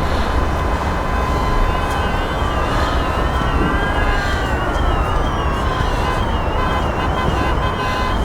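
Emergency vehicle sirens over steady city traffic rumble. One siren warbles fast, about three times a second, starting about two seconds in. Another rises and falls in a slow wail.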